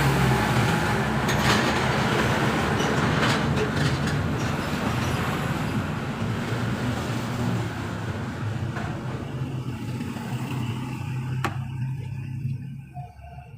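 Motor vehicle engine running steadily, with a few light clicks, then dropping away near the end.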